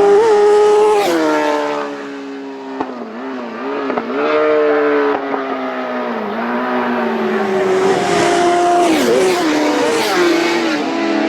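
Road-racing motorcycles running at full throttle past the spectators. The engine note climbs, then drops sharply about a second in, and again several times near the end, as the bikes go past and change gear.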